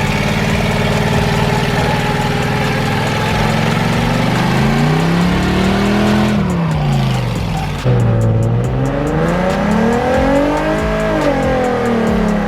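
A car engine revving repeatedly: after a few seconds of steady running, its pitch rises and falls in long swells about every three seconds.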